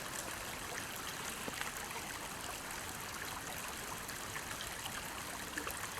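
River water flowing steadily, an even rush of running water.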